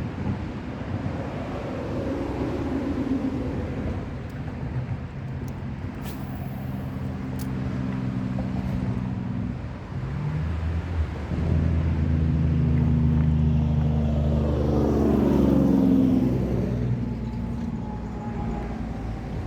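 Road traffic: motor vehicles driving past with a steady engine and tyre hum. One pass builds to its loudest about fifteen seconds in and then fades.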